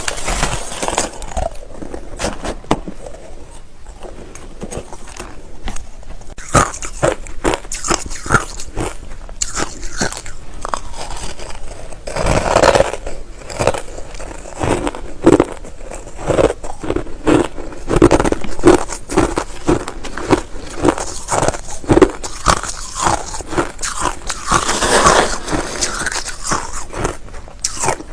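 A person biting and chewing white crushed ice: a continuous run of sharp crunches, with denser bursts of crunching about halfway through and again near the end.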